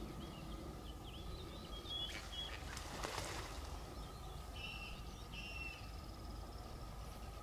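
Outdoor wetland ambience with small birds chirping in short high calls, in two spells, and a brief rush of noise about two to three seconds in.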